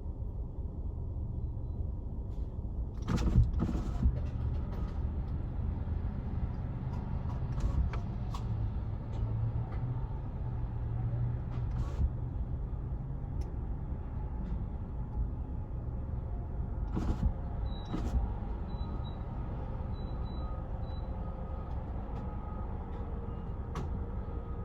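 A vehicle engine idling steadily, with a few sharp clicks and knocks over it. No siren is sounding.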